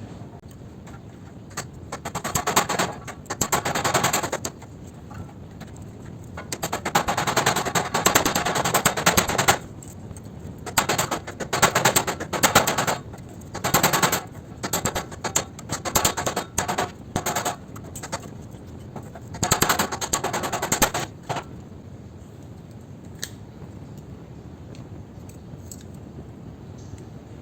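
A power tool run in repeated bursts of a few seconds, with rapid chattering, and several short blips between the longer runs, used on an air-conditioner condenser to free its steel stiffener strip.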